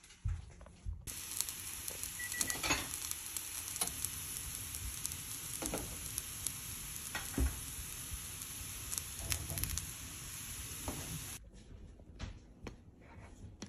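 Breaded chicken pieces frying in a pan, sizzling steadily with scattered crackles. The sizzle starts about a second in and stops suddenly near the end, leaving a few faint knocks.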